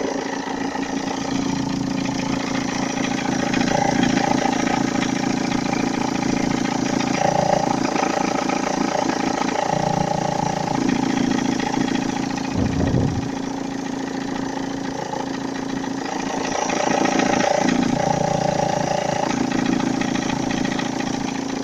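Fiat 1.9 JTD four-cylinder common-rail turbodiesel idling with a knocking and rustling noise. Without the accessory belt the engine ran quietly and the tensioner and idler pulleys have been replaced, so the owner suspects the air-conditioning compressor's bearings.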